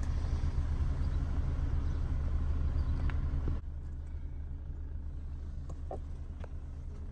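Car engine idling, a steady low rumble heard from inside the cabin; about three and a half seconds in it drops suddenly to a quieter hum, with a few faint clicks after.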